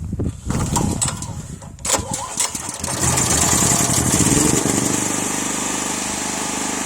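Generator engine started on choke: a couple of seconds of cranking, then it catches about three seconds in and runs loudly before settling into a steady run.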